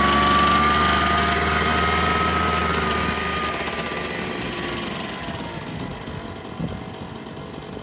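An engine running with a faint whine that rises slightly and then sags, fading steadily away over several seconds.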